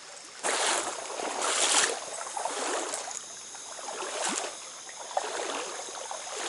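Flowing stream water, with two loud sloshing splashes about half a second and a second and a half in and a few smaller ones later.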